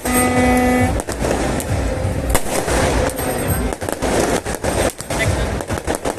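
Fireworks going off, many sharp bangs and pops in quick irregular succession over a dense crowd din. A horn sounds a held note in the first second.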